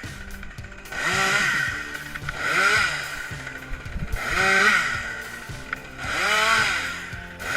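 Chainsaw revved up and back down in repeated surges, about one every second and a half to two seconds, over background music.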